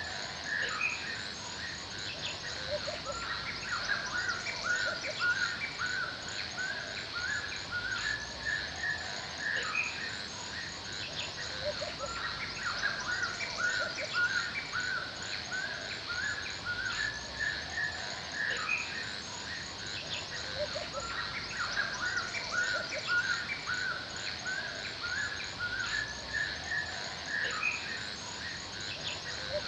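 Forest birdsong: several birds chirping and calling over one another, with short repeated notes throughout, over a steady high insect drone.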